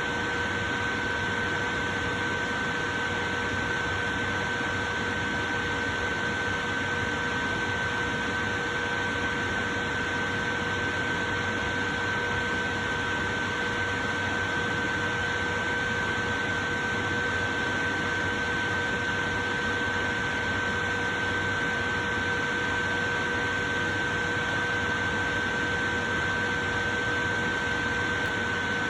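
Portable electric fan running steadily: an even rushing hiss with a faint, unchanging whine over it.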